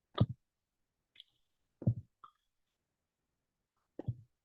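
Three short soft thumps about two seconds apart, with a couple of faint clicks between: fingertip taps on a touchscreen picked up by the device's microphone.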